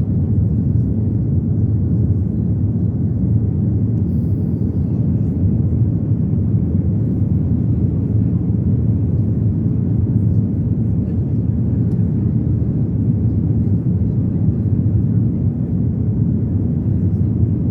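Steady low rumble of a passenger airliner's engines and airflow heard inside the cabin, holding an even level throughout.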